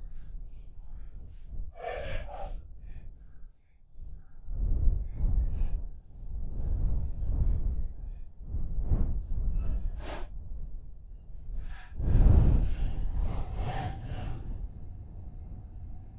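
Rustling of brush and a rope being pulled tight as a brush pile is cinched down, with a man breathing hard from the effort. The sound comes in irregular bursts, loudest about twelve seconds in, with no saw running.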